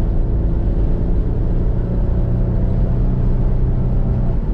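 Pontiac Firebird driving at a steady speed: the engine hums evenly under low road and wind rumble, and the hum drops away near the end.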